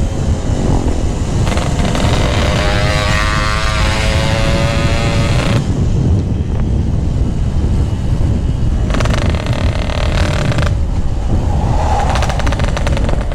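Yamaha RX-King two-stroke single-cylinder motorcycle with a GRT18 aftermarket exhaust, revving on and off while riding, with a heavy low rumble of wind on the microphone. The engine note climbs and wavers about a second and a half in, eases, then comes up again for a couple of seconds near the end.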